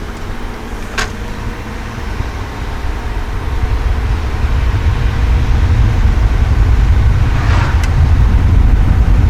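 2012 VW Touareg TDI's V6 diesel and road noise rising steadily as the SUV gathers speed on a test drive after new front brake pads. Two sharp clicks come through, about a second in and near the end.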